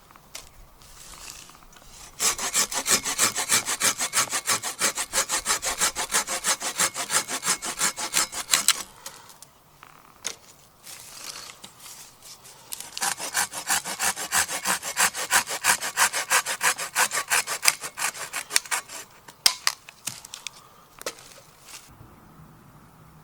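A hand saw cutting through wood in two spells of quick, even back-and-forth strokes. The first spell lasts about six seconds; the second starts about halfway through. A few odd strokes fall between and after them.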